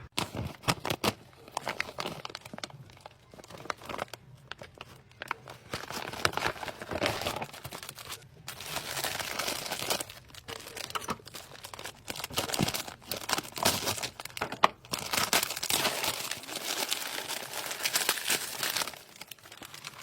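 MRE meal bag being torn open and its plastic-wrapped packets rustled and pulled out, with stretches of plastic crinkling and tearing that come and go.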